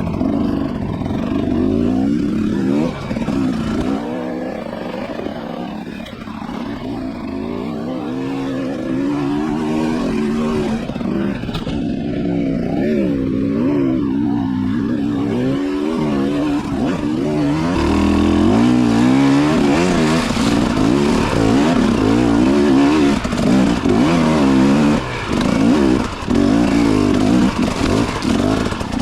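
Motorcycle engine running under way, its pitch rising and falling with the throttle, growing louder about two-thirds of the way through, with a few brief dips near the end.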